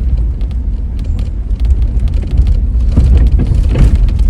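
A car driving along a road: a steady, loud low rumble of engine and road noise.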